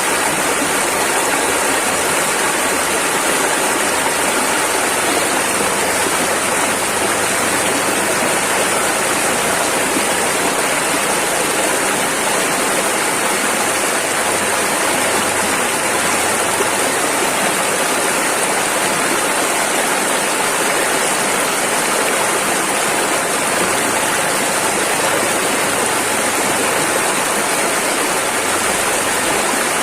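Rushing river: fast water churning over rapids in a steady, even rush.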